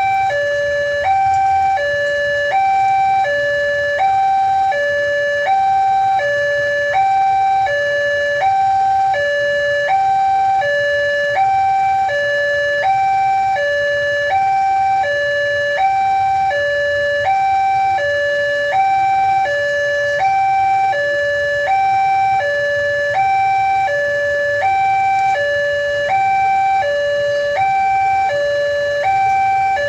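Railway level-crossing warning alarm sounding continuously: an electronic two-tone signal alternating evenly high-low, about once a second, warning that a train is approaching.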